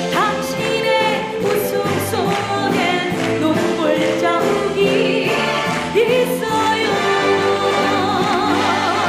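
Music with singing voices, holding and bending sustained notes.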